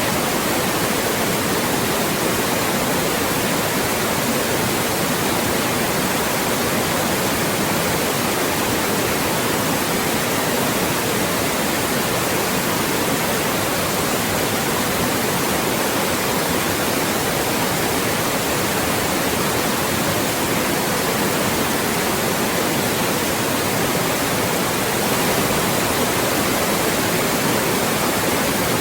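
Loud, steady white noise: an even, unchanging hiss across the whole range, made as a speech blocker to mask voices.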